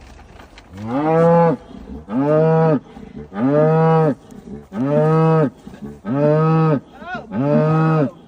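A cow mooing six times in a regular series, each moo about a second long, rising and then falling in pitch.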